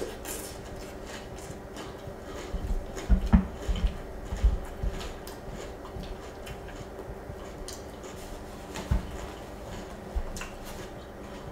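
Close-up chewing of crunchy Trix cereal in milk, with faint clicks and scrapes of a wooden spoon in a glass bowl. A few dull low knocks come in a cluster a few seconds in and once more near the end.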